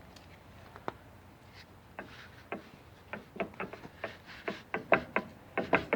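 Irregular knocks and clicks, a few at first, then coming quickly and unevenly in the second half.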